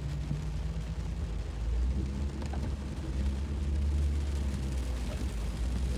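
Car interior drone of engine and tyres, a steady low rumble, with monsoon rain pattering faintly on the car.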